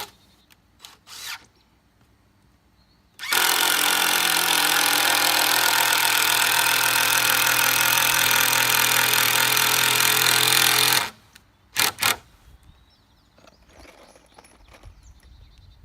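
Power drill driving a screw into framing lumber, running steadily for about eight seconds, then two short bursts as the screw is snugged, not tightened all the way.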